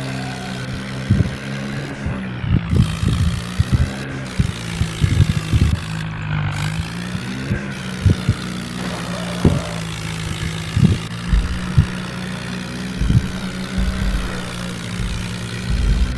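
Tractor engine running steadily, its pitch dipping and rising briefly about six seconds in, with scattered short low thumps.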